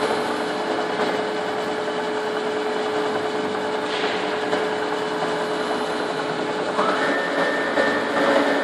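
Monti M15 moving-column CNC milling machine running with a steady mechanical hum and one held tone. About seven seconds in, a whine rises quickly in pitch and then holds steady.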